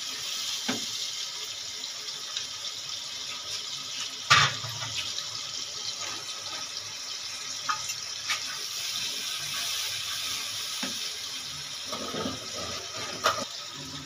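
Tomato-onion masala sizzling in ghee in a non-stick wok while a wooden spatula stirs it, with a few knocks and scrapes of the spatula against the pan, the loudest about four seconds in.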